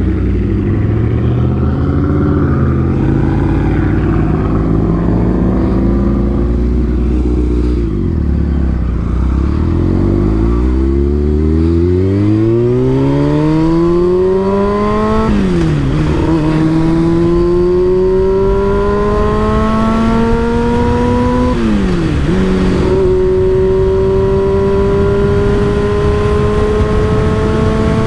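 Motorcycle engine through an aftermarket M4 exhaust, slowing to a low engine speed, then accelerating hard through the gears. Its pitch climbs, dips sharply at two upshifts about seven seconds apart, and climbs again. Low wind rush runs underneath.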